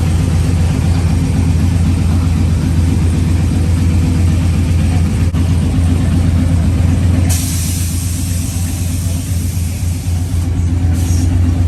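Vehicle engine running steadily with a low, even hum. About seven seconds in, a hiss joins it.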